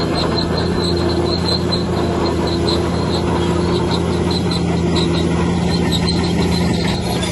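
Heavy diesel earthmoving machine, a bulldozer, running steadily, with short high squeaks recurring a few times a second.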